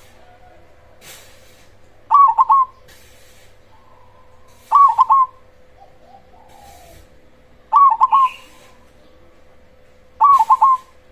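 Cemani zebra dove (perkutut) cooing: four short phrases of three quick notes, one about every two and a half to three seconds.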